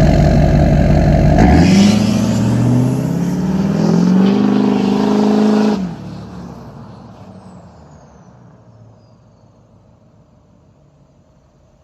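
LBZ Duramax 6.6-litre turbo-diesel V8 through a 5-inch straight-pipe exhaust, idling with a rumble from its tune. About a second and a half in it revs up, climbing steadily in pitch for about four seconds. Then the engine sound cuts off suddenly and dies away over the next few seconds.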